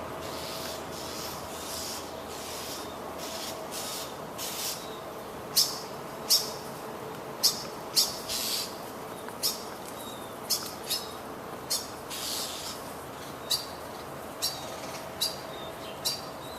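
A blackbird giving sharp, short alarm calls over and over, softer at first and loud and about one a second from about five seconds in. These are its distress calls at a cat that has just killed a baby bird.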